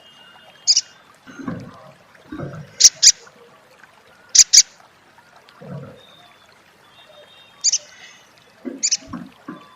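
Sunbird giving short, sharp, chattering 'crecet' calls, several of them in quick pairs. Low, muffled sounds come in between the calls.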